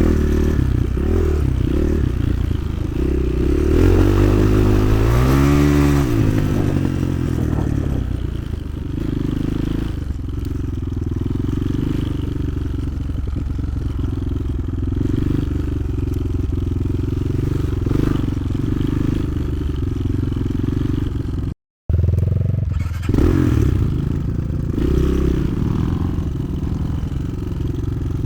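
Motoland XR 300 Lite enduro motorcycle's single-cylinder engine running under way, revving up with rising pitch about four to six seconds in and again near the end, running steadier in between. The sound cuts out for a moment about 22 seconds in.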